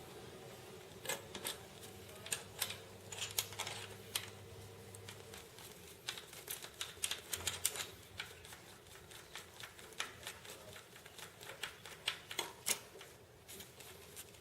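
Irregular sharp clicks and taps, several a second at times, over a faint steady hum.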